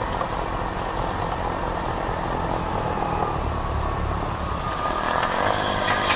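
Road traffic: motor vehicles driving past with a steady rush of tyre and engine noise, growing a little louder near the end.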